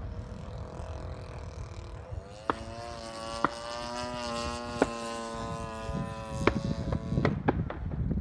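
Radio-controlled model airplane's motor running in flight: a steady, pitched drone that comes in about two seconds in and fades out around seven seconds. Wind rumbles on the microphone throughout, and a few sharp clicks sound.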